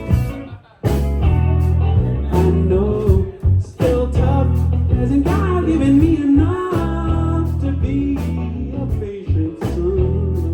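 Rock band playing live, with electric guitars, bass and drums, and a lead voice or guitar line weaving over the top; everything cuts out briefly just under a second in, then comes back in together.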